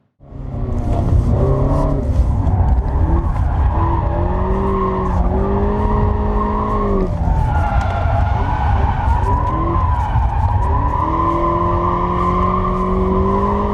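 Abarth 124 Spider's engine and exhaust running hard, its pitch rising and falling slowly twice over a heavy rough noise; it starts suddenly.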